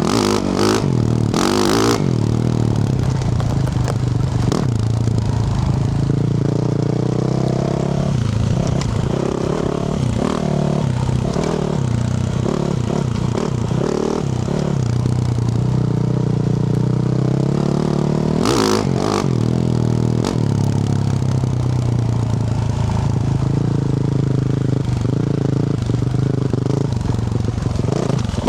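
Yamaha YZ450F single-cylinder four-stroke dirt bike engine with a Yoshimura RS-12 exhaust, running under way as the bike is ridden, revs rising and falling. Scraping and clattering from the bike over the track sounds along with it, with two short rushes of noise, one about a second in and one around two-thirds through.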